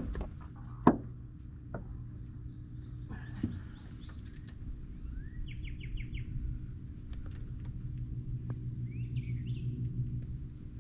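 Wild birds calling in quick series of short chirping notes over a steady low hum, with two sharp knocks in the first second.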